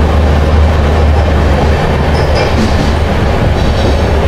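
Passenger train running through a rail tunnel, heard from on board: a loud, steady low rumble of wheels on rails, with no break.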